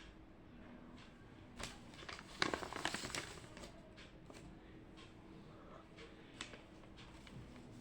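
Quiet room tone with a steady low hum, scattered small clicks and a short rustling, clicking burst about two and a half seconds in, typical of objects being handled at a desk.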